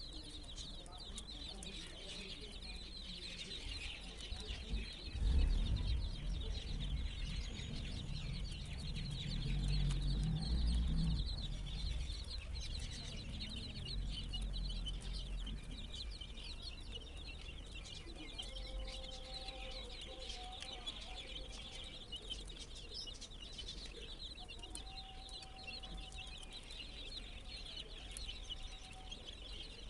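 A flock of young chicks peeping all the time, with many short, high cheeps overlapping. A low rumble swells between about five and twelve seconds in.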